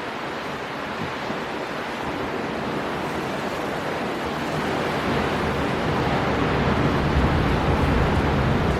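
Storm wind blowing over breaking sea waves: a steady rush of wind and surf that grows louder and deeper over the second half.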